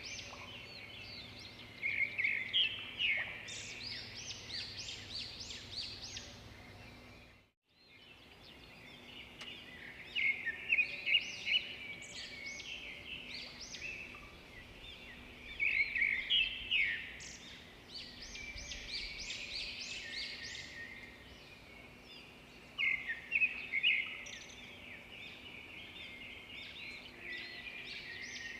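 A dense chorus of many birds chirping and calling together, swelling into louder bursts every several seconds over a faint steady background. The sound cuts out completely for a moment about seven and a half seconds in.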